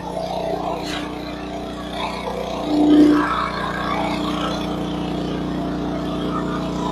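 A motor vehicle's engine running steadily, with a short, loud tone about three seconds in.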